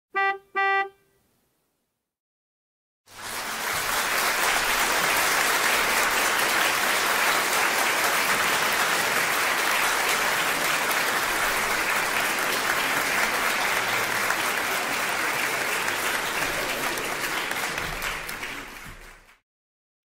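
Two short honking toots in quick succession, then after a silent gap, a stock applause sound effect of a crowd clapping steadily for about sixteen seconds, tapering off and stopping near the end.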